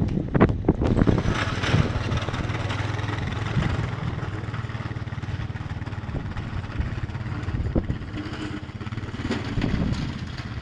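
Storm wind buffeting the microphone in irregular low thumps, over a steady low rumble and rushing noise.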